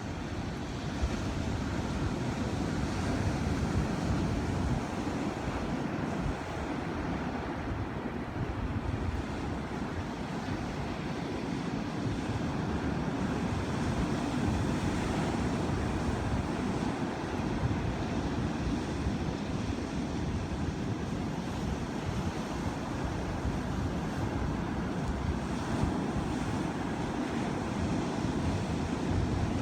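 Ocean surf: waves washing and breaking in a continuous wash that slowly swells and eases, with a low wind rumble on the microphone.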